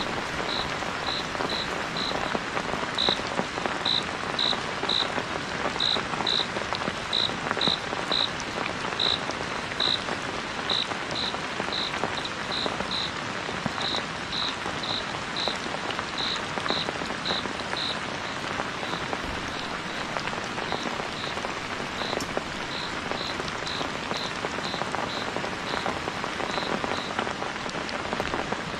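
Steady heavy rain falling, with a short high chirping call repeated about twice a second that grows fainter and sparser in the second half.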